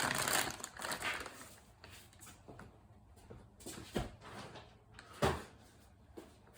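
Rummaging through small parts by hand: rustling and light handling clicks, with two sharper knocks about four and five seconds in.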